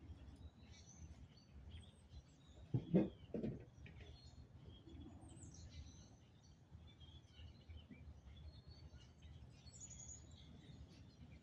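Small birds chirping faintly over a steady low outdoor rumble, with a short cluster of dull knocks about three seconds in.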